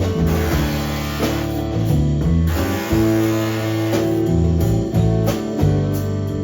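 Blues band music: an instrumental guitar passage over bass and a steady beat, with no singing.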